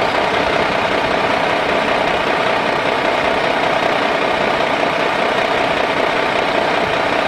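Helicopter engine sound effect: a steady, even engine drone with a faint held tone, no change in pitch.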